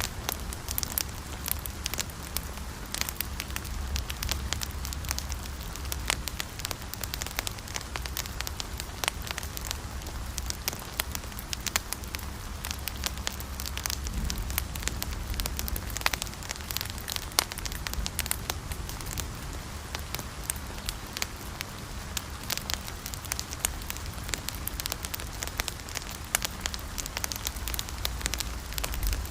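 Wood fire burning with dense, irregular crackles and pops over a low steady rumble.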